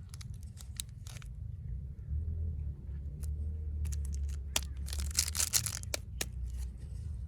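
Wood fire crackling: irregular sharp pops and snaps over a steady low rumble, thickest in a cluster about two-thirds of the way through.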